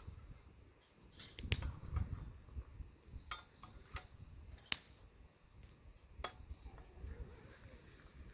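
Scattered light clicks and knocks of objects being handled over a low rumble, with a sharp click about a second and a half in and the loudest one near five seconds.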